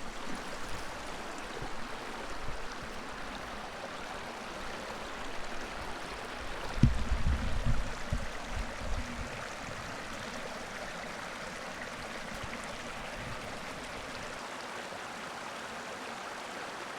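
Running water with a steady rush. A short run of low thumps comes about seven seconds in and lasts a couple of seconds.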